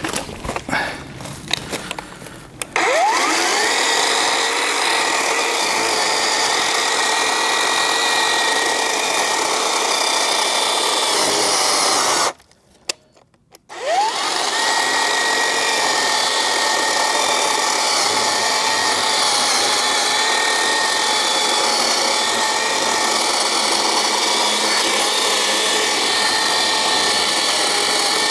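Black+Decker GKC3630L20 36 V cordless electric chainsaw spinning up with a rising whine about three seconds in, then running steadily. It stops briefly just past the middle, then whines back up to speed and runs on.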